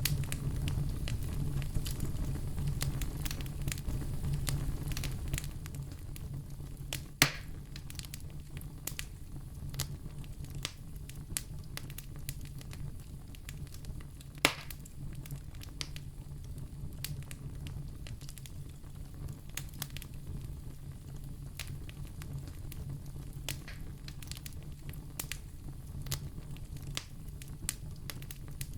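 Firewood burning, crackling with many small pops over a low, steady rumble of flames. Two louder pops stand out, one about seven seconds in and one near the middle.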